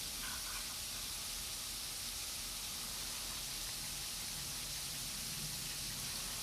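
Icy snow falling and hitting the ground, a steady fine hiss.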